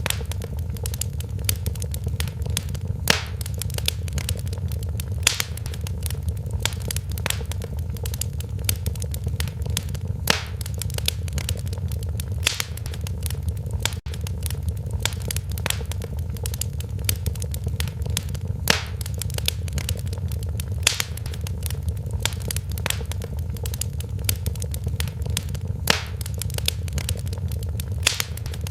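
Wood fire crackling in a fireplace: a dense run of small snaps and pops, with a louder sharp pop every few seconds, over a steady low rumble.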